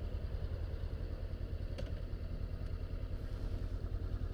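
Honda CBR500R's parallel-twin engine idling with a steady, even low pulse.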